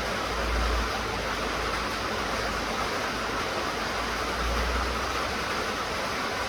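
Steady rain falling, an even hiss of many drops, with a low rumble that swells twice, near the start and about two-thirds of the way through.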